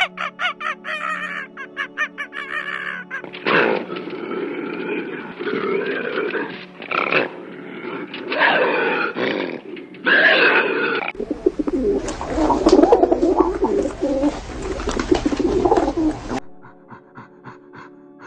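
Animal calls: a run of loud, separate pitched calls, then a louder, rougher and lower stretch, with background music before and after.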